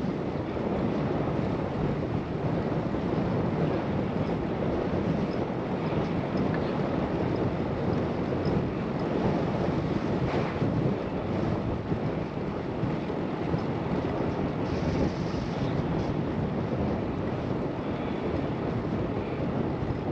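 Steady rush of wind buffeting the microphone of a bicycle-mounted camera while riding.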